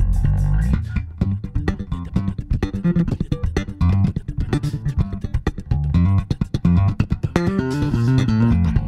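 Two bass guitars playing an instrumental groove together: quick plucked notes with a strong low line and chords higher up.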